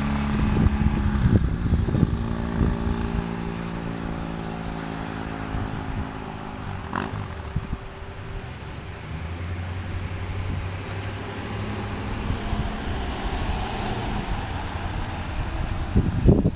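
2005 Triumph Thruxton 900's parallel-twin engine through a one-off short-can exhaust, running at a steady note that fades away about eight seconds in; a lower engine hum follows. Wind buffets the microphone near the start and again near the end.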